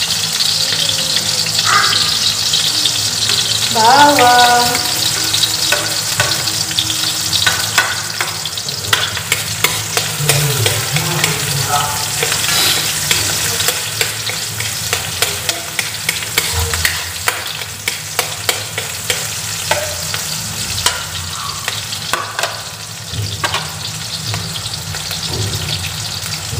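Chopped onion and garlic sizzling in hot oil in a large wok as they are sautéed, with a spatula clicking and scraping against the pan as they are stirred. A brief pitched squeak about four seconds in is the loudest moment.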